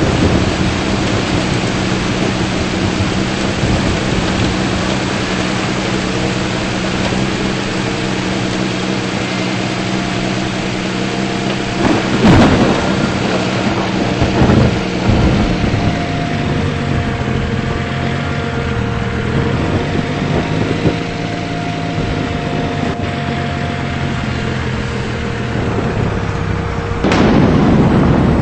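Steady rain and storm noise under a low, even hum from a vehicle's engine, with two brief louder swells: one about twelve seconds in and one near the end.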